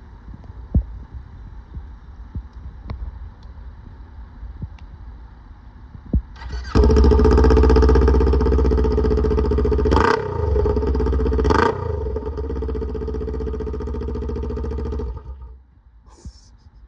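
Kawasaki Ninja 400's parallel-twin engine running with no muffler fitted: loud and raw on the open pipe. It starts about a third of the way in, is blipped twice, idles, and then is switched off shortly before the end.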